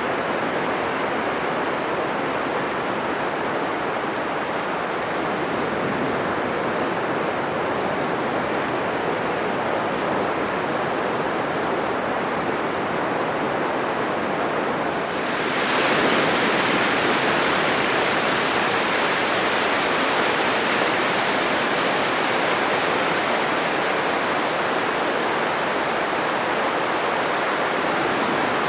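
Atlantic surf breaking on a wide sandy beach, a steady rush of waves. About halfway through a bigger wave crashes, and the hiss swells and stays louder.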